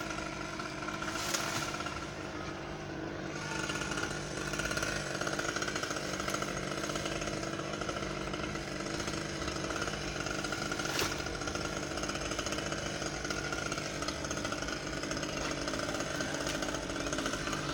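Husqvarna T540XP top-handle two-stroke chainsaw running steadily, with a couple of brief clicks.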